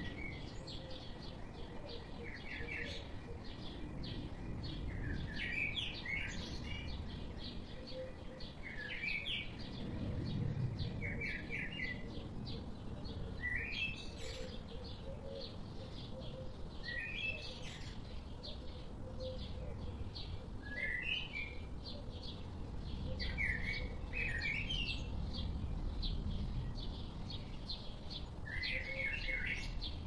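Small birds singing: a short chirping phrase repeats every two to four seconds over a steady background of faint rapid ticking calls.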